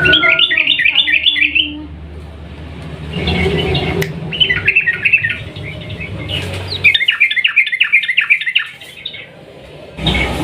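Yellow-vented bulbul singing: three long, rapid phrases of repeated chattering notes, with short pauses between them.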